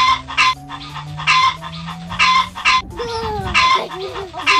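Chicken clucking over and over, a sharp cluck about every three-quarters of a second, over a low steady drone. About three seconds in there is a falling, wavering tone.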